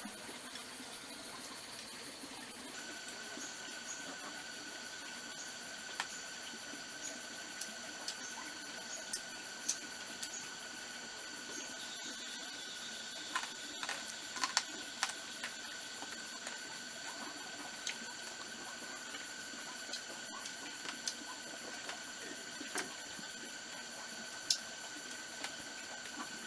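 Forest insects chirring in a steady chorus, with a new steady insect tone that comes in about three seconds in. Short sharp clicks and snaps are heard here and there over it, most often around the middle.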